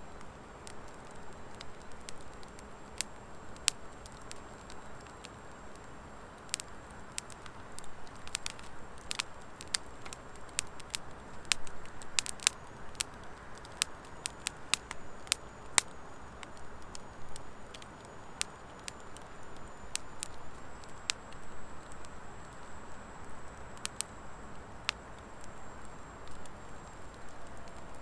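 Wood fire of driftwood and dry hardwood crackling, with irregular sharp pops over a soft steady hiss of flames. The pops come thickest around the middle, several a second at times.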